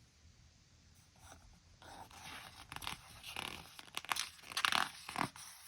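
Paper rustling and crackling as a picture book's page is handled and turned.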